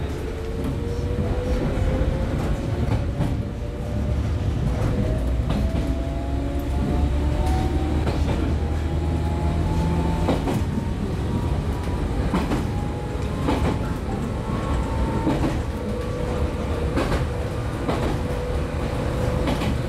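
Inside a JR 115-series electric train's motor car as it pulls away and accelerates: the traction motor and gear whine climbs steadily in pitch for about ten seconds, then holds steadier. Under it run the rumble of the running gear and the clicks of wheels over rail joints.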